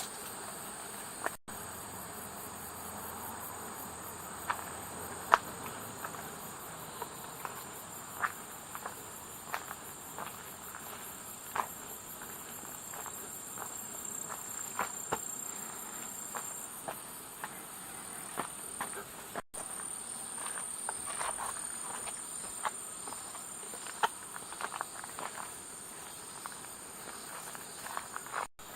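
Insects chirring in a steady, high-pitched drone, with scattered light ticks and clicks over it. The sound breaks off for an instant three times.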